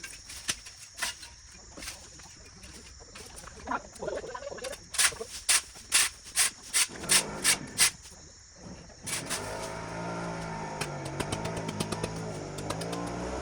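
Repeated sharp strikes, like hand tools chopping at brush, then about nine seconds in a small engine starts running steadily, its pitch wavering.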